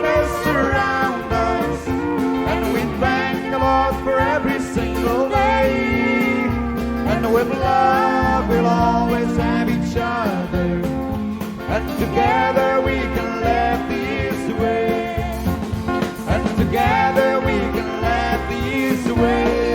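Instrumental break of a country song: drums and bass keep the beat under a guitar lead playing bending, sliding melody lines.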